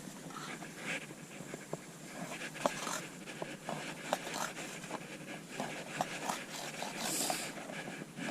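Knife cutting on an unsteady cutting board: irregular taps and short scrapes.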